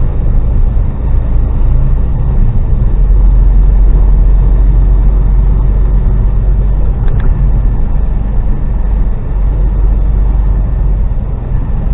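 Loaded HGV lorry's diesel engine and road noise heard from inside the cab while driving: a steady low rumble, heaviest in the middle stretch.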